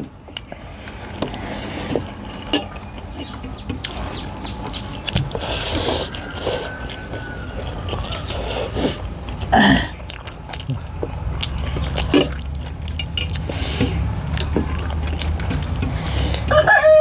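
Eating sounds of chewing and small clicks, over a steady low hum. A chicken calls in the background, loudest once about ten seconds in and again near the end.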